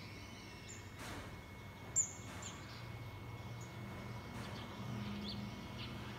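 A small bird giving short, high chirps at scattered moments, over a low steady background hum. A single sharp click about two seconds in is the loudest sound.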